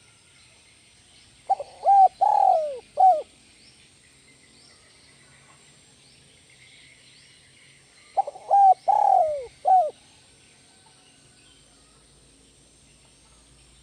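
Spotted dove (tekukur) cooing: two song phrases about six seconds apart. Each phrase is a few quick coos, then a long falling coo, then a single short closing coo. Small birds chirp faintly in the background.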